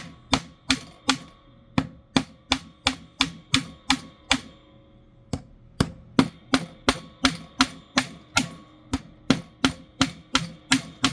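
Small hammer tapping nails into a wooden birdhouse kit, quick even blows about three a second, each with a short ring, with a pause of about a second near the middle.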